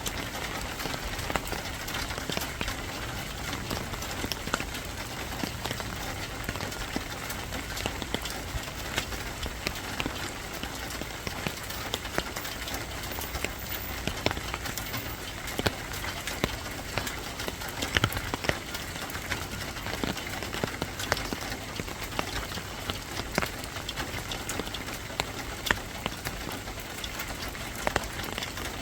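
Steady rain falling, with many separate drops tapping sharply on a hard surface.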